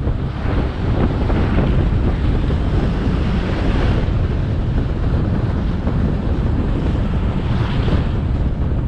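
Wind buffeting the action camera's microphone on a moving motorcycle: a loud, steady rumble with the bike's engine and road noise underneath. The hiss swells a few times, about a second in, around four seconds and near the end.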